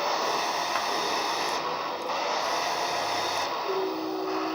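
1/14 Lesu PC30 RC hydraulic excavator working its dozer blade: a steady hissing hydraulic and engine sound from the model's pump and its onboard sound module's small speakers. The hiss changes character twice, and a steady tone joins near the end.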